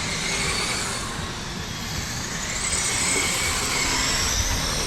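Several radio-controlled race cars running laps on a dirt oval, their motors whining in high overlapping tones that rise and fall as they speed up and slow through the turns.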